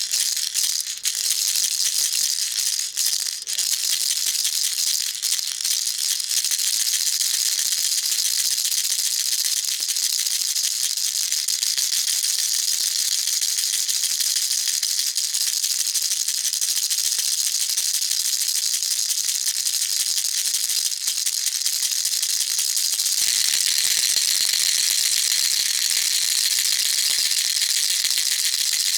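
Baby rattle shaken continuously, a dense steady rattling of small beads. It shifts to a slightly brighter, louder rattle near the end.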